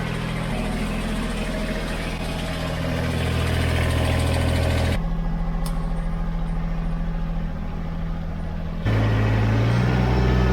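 Kubota BX23S compact tractor's three-cylinder diesel engine running steadily. Its tone changes abruptly about five seconds in and again near nine seconds.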